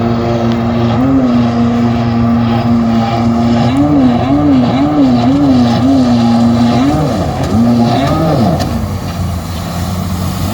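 Small jet boat's engine running at a steady pitch, then its speed rising and falling quickly several times, and dropping lower and wavering near the end.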